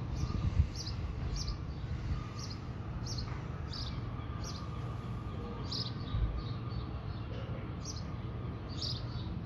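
A small bird chirping, short high chirps repeated every half second or so, over a steady low outdoor rumble.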